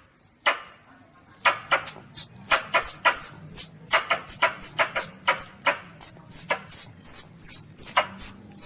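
Recorded calls of a young Asian palm civet (luwak): a rapid series of short, high squeaks, each falling sharply in pitch, about two or three a second. After a brief pause at the start, the calls resume about a second and a half in.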